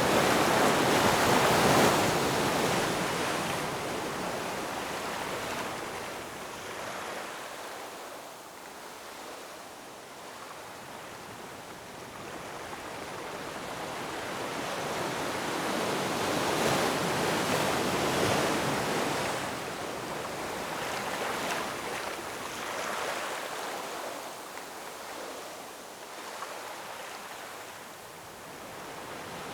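Ocean waves surging and washing onto a shore: a wave loud at the start that fades away, a second one building to a peak a little past halfway, then smaller washes ebbing before the next one starts to rise near the end.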